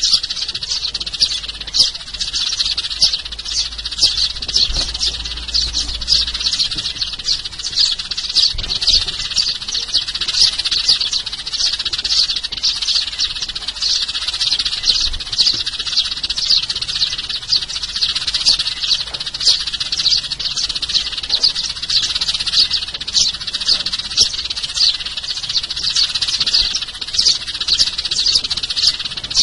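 A flock of sparrows chirping without pause, many short, high, overlapping chirps every second. This is a sparrow-call recording made for luring sparrows.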